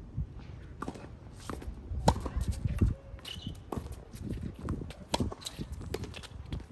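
Sharp knocks of tennis play (ball off strings and court, shoes on the court surface), irregular, the loudest about two seconds in, over a low rumble of strong wind buffeting the microphone.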